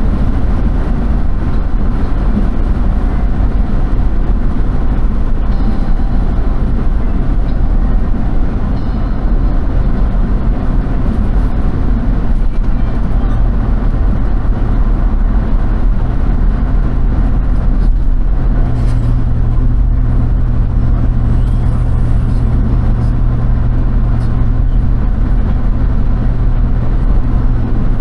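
Steady motor vehicle engine and road noise, a constant low drone whose low hum grows stronger about two-thirds of the way through.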